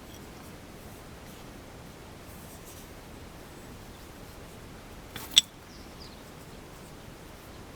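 A single short, sharp click about five seconds in, over faint steady background hiss.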